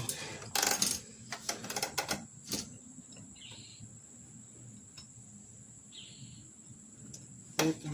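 Hand tools and the tire being handled: a noisy rustle and several sharp clicks and knocks in the first couple of seconds, then two short, faint hisses. A faint, steady, high-pitched whine runs underneath.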